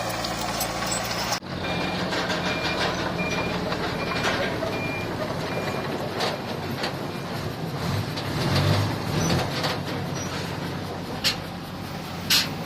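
Diesel heavy equipment running at a dump site, with a backup alarm beeping about twice a second for several seconds while a machine reverses. The engine note swells after the beeping stops, and two sharp knocks come near the end.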